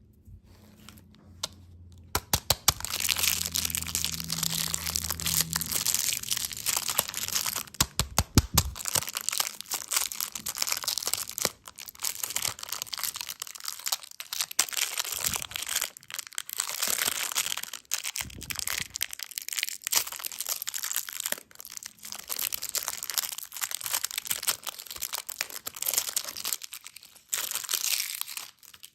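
Plastic candy wrappers crinkling and crackling as they are handled and torn open, with bursts of sharp clicks about two seconds in and again around eight seconds.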